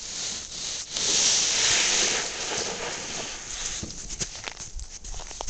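Snow being pushed and scraped along the ground by hand as an improvised plow: a long loud scraping rush about a second in, then lighter crunching and scuffing of snow and footsteps.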